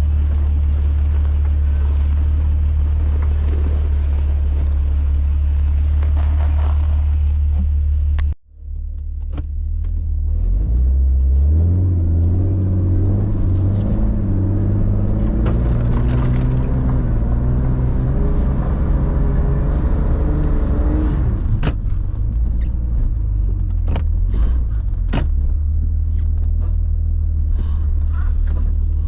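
Four-wheel-drive vehicle's engine running with a steady low rumble while driving through snow. The sound cuts out briefly about eight seconds in. The engine then works harder, its pitch rising and shifting for about ten seconds before settling back to a steady rumble, with a few sharp knocks near the end.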